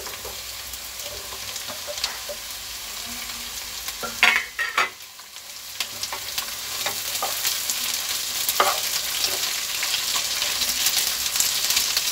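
Chopped green bell peppers sizzling in hot oil with fried onions in a kadhai, stirred with a wooden spatula that scrapes and knocks against the pan. There is a cluster of loud knocks about four seconds in, and the sizzle grows louder through the second half.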